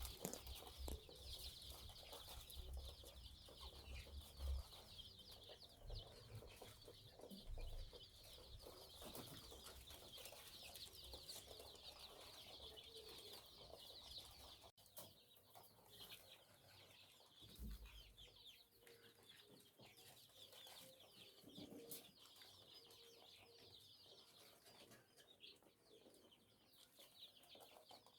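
A flock of chickens calling faintly, many short high peeps and chirps overlapping without pause. There are a few low bumps in the first seconds, and the calls become quieter about halfway through.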